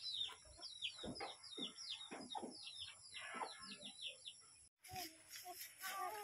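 Bird chirping in the background: a quick run of short, high, falling chirps, several a second, over faint knocks; it cuts off abruptly about four and a half seconds in.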